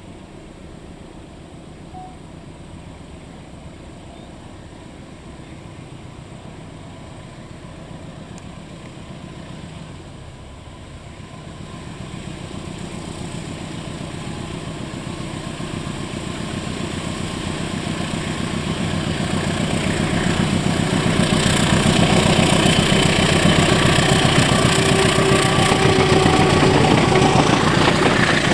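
Diesel train approaching along the track: its engine grows steadily louder over about ten seconds, and a loud rush of passing train noise joins it in the last several seconds as it comes close.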